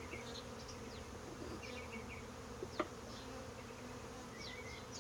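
Honeybees of an open hive buzzing steadily, an even hum from the colony.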